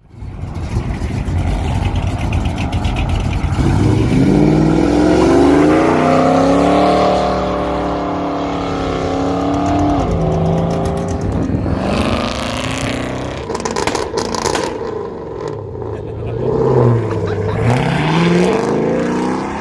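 Classic V8 muscle car engine accelerating hard, its pitch climbing steadily for a few seconds, then falling back and revving up again twice.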